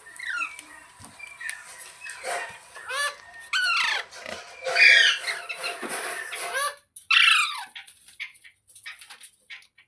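Pet parrot calling in a rapid run of short, shrill squawks, each falling in pitch, loudest around the middle, then a few quieter calls near the end.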